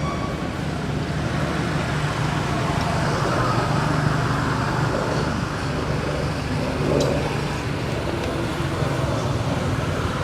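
Steady traffic noise: a continuous low engine hum under an even hiss of road noise.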